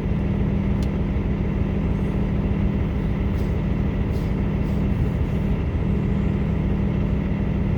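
Steady low drone of an idling semi-truck diesel engine.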